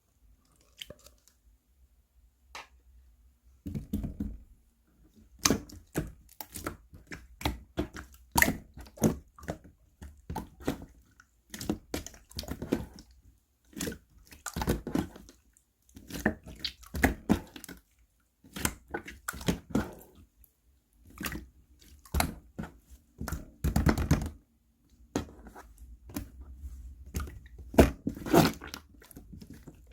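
Chisel-style slime being pressed and squished by hand, giving bursts of sticky clicks and crackling pops that start a few seconds in.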